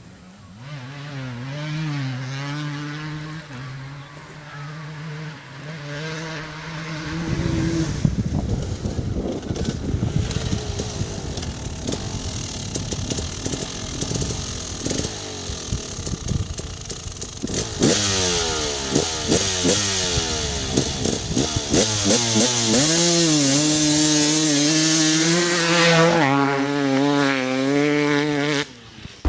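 KTM 300 EXC single-cylinder two-stroke engine revving hard. The pitch rises and falls at first, turns rough and high-revving, then climbs in repeated upward sweeps as the bike accelerates through the gears, and cuts off suddenly near the end.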